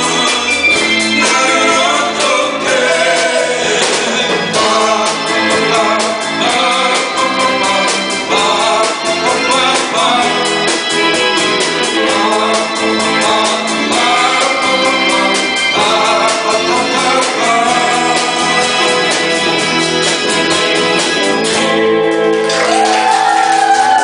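A live band with a singer performing a Korean 7080-era pop song over a steady beat, with keyboard backing. Near the end the singer holds one long, wavering note.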